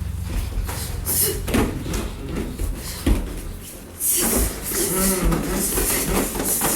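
Thuds and scuffling of two people sparring: strikes landing and feet moving on the floor, with a sharp thump about three seconds in and a busier rustle in the second half.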